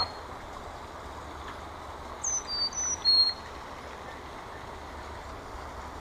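A small songbird sings about two seconds in: a short phrase of four thin, high whistled notes, alternating high and low, the first sliding down.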